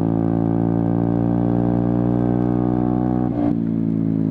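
Yamaha Zuma 125 scooter's single-cylinder four-stroke engine running steadily at cruising speed, its pitch easing slightly lower, with a brief wobble a little over three seconds in.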